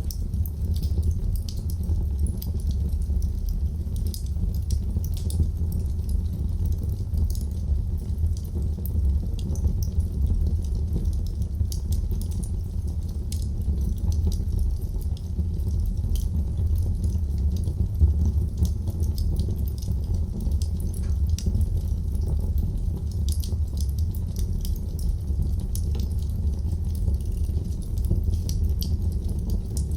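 Wood fire burning in a fireplace: a steady low rumble of flames with frequent small, irregular crackles and snaps.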